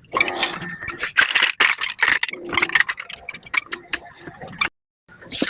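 Rapid, irregular clattering and clicking of hard objects being handled, with rattling. The sound cuts out completely for a moment about four and a half seconds in.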